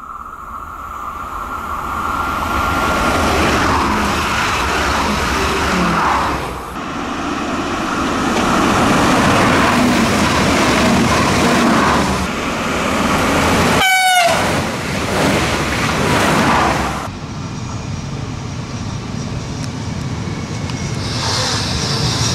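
Alstom Coradia Liner V160 trains running past at speed, with rail and running noise that builds as the first train approaches. One short horn toot sounds about two-thirds of the way in. The sound changes abruptly twice where separate recordings are joined.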